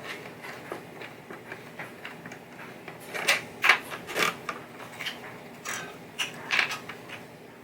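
Irregular clicks, light knocks and short rattles of small hardware and plastic parts being handled and taken off a pinball playfield, busiest from about three seconds in.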